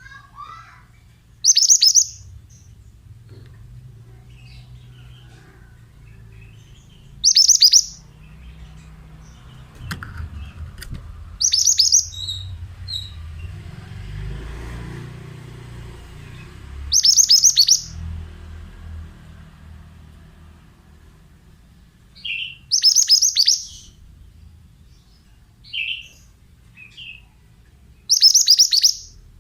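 Pied bushchat (mantenan) singing: six short, bright, high song phrases about five to six seconds apart, with a few quieter, lower chirps between them.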